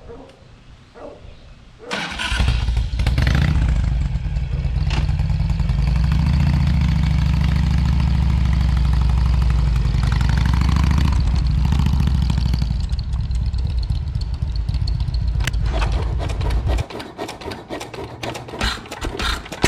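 An engine starts about two seconds in and runs steadily at a low pitch, then cuts off suddenly near the end, followed by a quick series of clicks.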